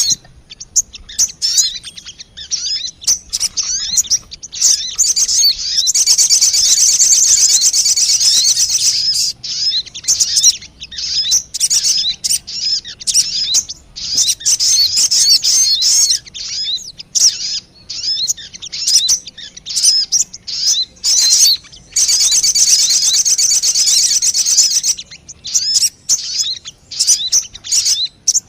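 Lure recording of sogon bird calls: a rapid run of high, sharp chirps, broken twice by long, dense trills lasting a few seconds each.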